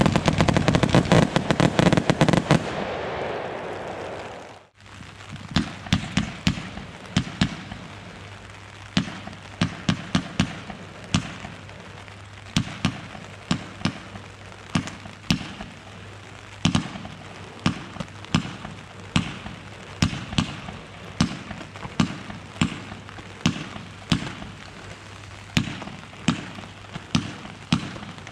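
Consumer fireworks going off: a dense, loud crackle for the first few seconds that dies away. After a brief break comes a long run of separate sharp bangs, about one to two a second.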